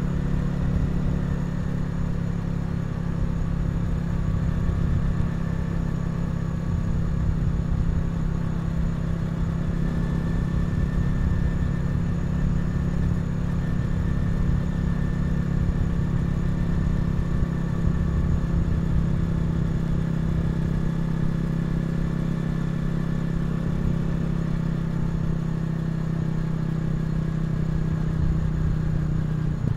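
Honda CRF250L's single-cylinder engine running at a steady cruise while riding, its note holding even, with road and wind noise underneath.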